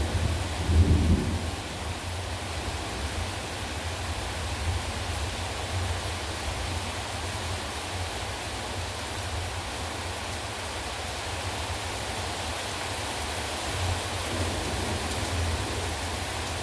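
Heavy rain falling steadily, with low rumbles of thunder: the loudest comes about a second in, and another swells near the end.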